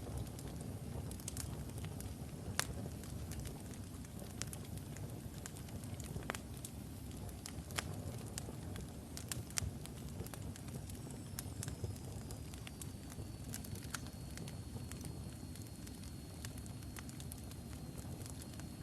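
Wood fire burning in a fireplace: a steady low rumble of flames with irregular sharp crackles and pops from the burning logs. A faint high whistle joins about halfway through.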